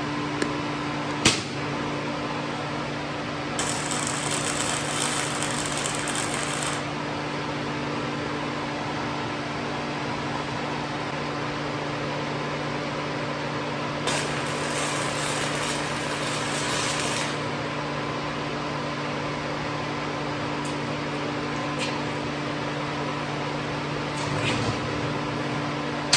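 Inverter MIG welder humming steadily with its fan running, broken by two bursts of welding-arc crackle, each about three seconds long, as tacks are laid on thin galvanized tubing. The welder is not welding well at this setting, which the welder puts down to the machine.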